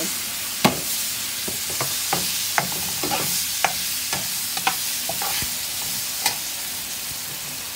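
Sliced tomatoes sizzling in hot oil with onions and spices in a frying pan, stirred with a slotted spatula. The spatula clicks and scrapes against the pan about a dozen times over the steady sizzle.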